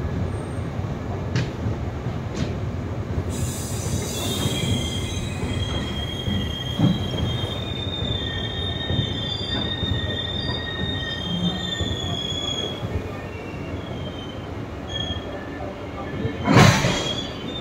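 Passenger train rolling slowly along a station platform: a steady low rumble, with a high, wavering wheel squeal that comes in a few seconds in and fades out about two-thirds of the way through, and a loud knock near the end.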